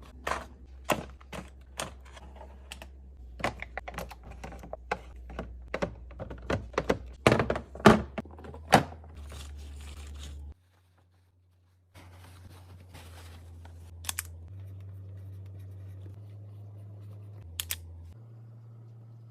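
Food containers and packages being handled and set down while a fridge is restocked: a quick run of light knocks and clicks for the first half. After a short cut, a faint steady hum follows with a few single clicks.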